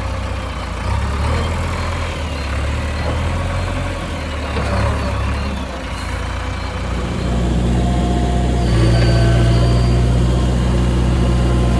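Heavy diesel engine of earthmoving machinery running steadily, its low drone growing louder about seven seconds in as it comes under more load.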